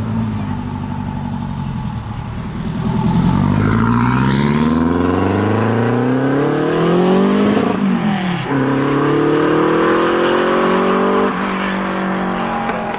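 Performance car engine running steadily, then accelerating hard with revs rising. About eight seconds in the pitch drops sharply at a gear change, climbs again, and eases off near the end.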